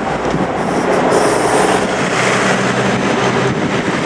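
A motor vehicle passing close along the road, with a steady engine hum over tyre and road noise that builds from about a second in.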